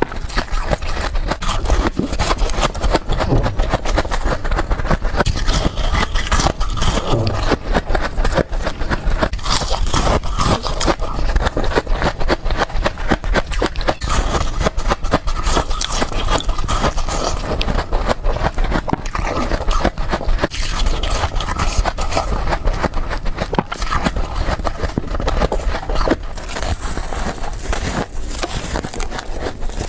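A person quickly biting and chewing crunchy frost, a dense, continuous run of crunches and crackles.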